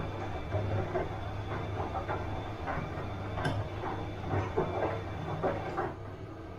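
Bosch front-loading washing machine running mid-cycle: a steady low motor hum with irregular swishing surges as the drum turns, and a single click about three and a half seconds in. The drum drive drops off about six seconds in, leaving a quieter hum.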